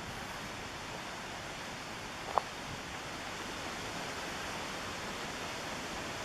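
Steady rush of a mountain river's fast water. About two and a half seconds in, one short, sharp click stands out above it.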